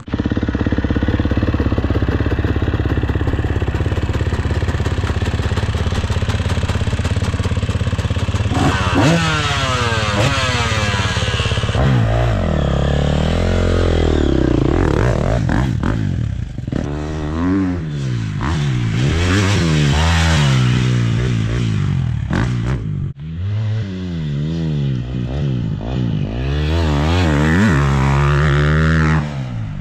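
Motocross dirt bike engine running steadily for about eight seconds, then revving up and down over and over as the bike is ridden, its pitch climbing and dropping every second or so.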